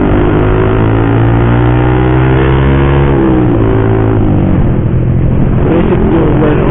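Motorcycle with a loud aftermarket racing exhaust running on the road, its engine note steady with a slight drop in pitch about three seconds in.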